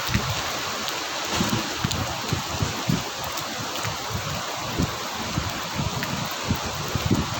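Slightly heavy rain falling steadily as a dense hiss, with frequent irregular low thumps.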